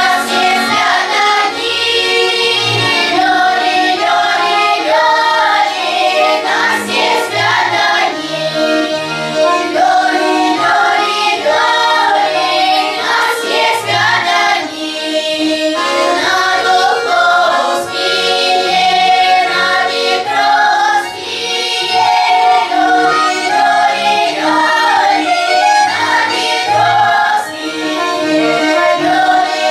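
A choir singing a melodic song with instrumental accompaniment and a steady bass line.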